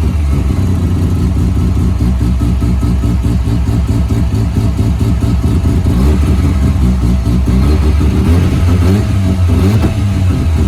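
Big-turbo, semi-peripheral-ported Mazda RX-7 FD twin-rotor rotary engine running for the first time with a choppy, uneven brapping idle, its pitch lifting briefly a couple of times in the second half.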